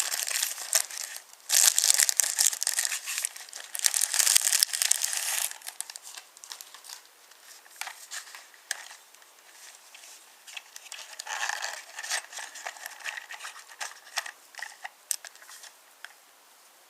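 Crinkling and crackling of something being handled, loud and dense at first, then thinning after about five seconds to softer scattered crackles with a short louder patch midway.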